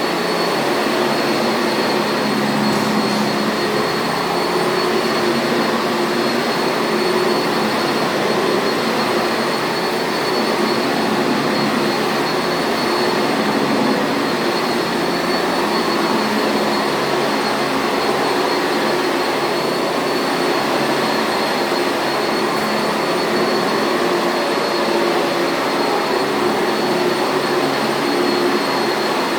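Sanitaire commercial vacuum cleaner running steadily: a constant motor hum and rush of air with a thin high whine over it.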